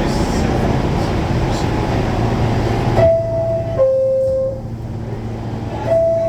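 A loud, steady rumble of an R46 subway car. About halfway through it gives way to a falling two-note chime, played twice about three seconds apart: the door chime that signals the doors are about to close.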